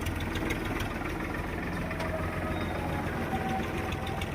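Tractor engine running steadily with a rapid, even knocking beat.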